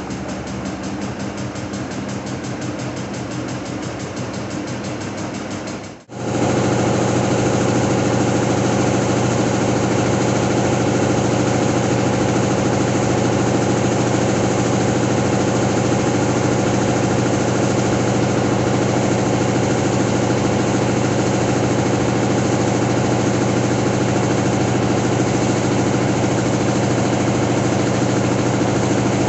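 Siemens washing machine running a spin: a fast, even rhythmic whirr for about six seconds, then after a sudden break a louder, steady motor whine of the drum spinning at speed.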